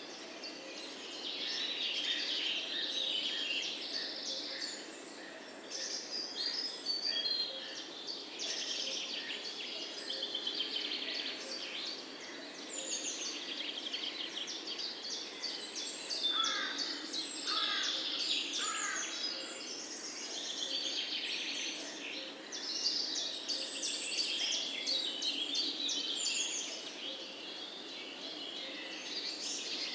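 Several songbirds singing and chirping at once, a continuous chorus of high trills and quick notes. About halfway through, three short, lower, downward-sliding whistles come about a second apart.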